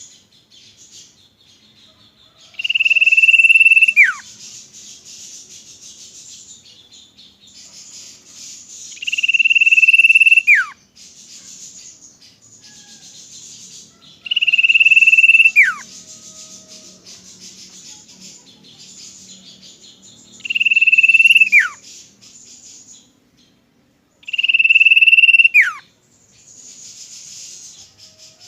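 Common iora (cipoh) calling: a long, steady, high whistle that ends in a sharp downward slur, repeated five times about every five to six seconds. A faint high hiss of chatter or insects sounds between the calls.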